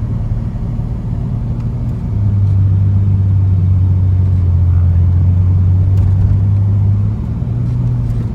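Pickup truck driving, its engine and road noise heard from inside the cab as a steady low drone. About two seconds in the drone drops in pitch and gets louder, and near the end it steps back up.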